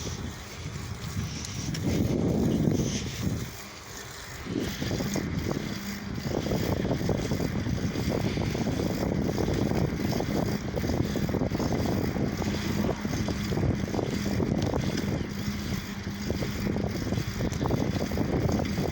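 Road noise of a lowrider bicycle being ridden: a steady rushing noise, swelling louder about two seconds in, with a steady low hum from about four seconds on.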